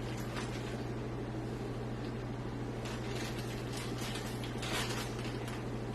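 Light rustling and small clicks of loose PC screws being picked through in a parts bag, over a steady low hum.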